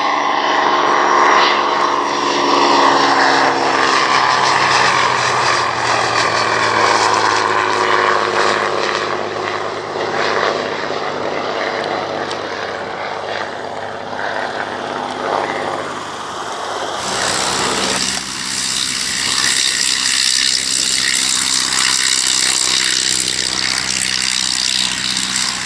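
Propeller-driven aircraft engine drone as an aircraft flies past, its note falling in pitch early on. About two-thirds of the way through, the sound switches abruptly to another steady engine drone with more hiss.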